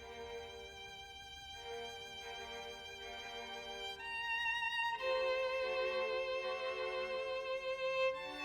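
Background music: a violin playing slow, long held notes with vibrato, moving up to higher notes about four and five seconds in and growing louder.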